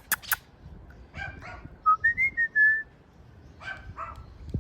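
Parrot calls: a couple of short squawks and, about two seconds in, a clear whistle that steps up in pitch and wavers for almost a second.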